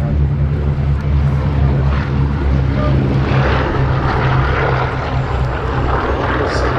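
B-17G Flying Fortress's four Wright R-1820 Cyclone radial engines running at takeoff power, a loud, steady multi-engine drone. About three seconds in, a rushing propeller noise swells over it.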